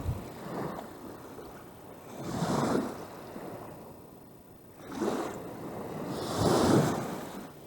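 Wind-driven lake waves washing and breaking against the shore in rough water. They come in four surges about two seconds apart, the loudest about six and a half seconds in.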